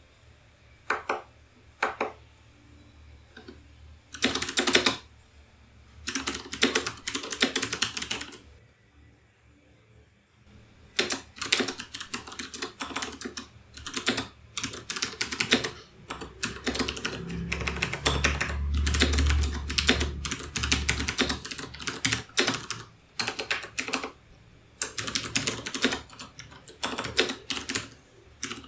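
Typing on a keyboard: two single keystrokes, then short bursts of fast typing, then nearly continuous typing with brief pauses.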